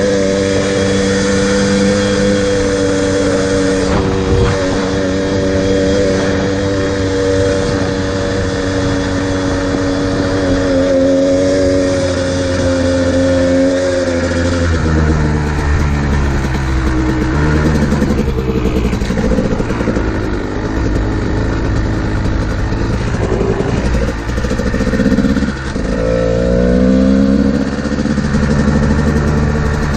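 Kawasaki KDX220R two-stroke dirt bike engine under way, holding a steady high pitch for about the first half, then dropping off and rising and falling with the throttle in the second half.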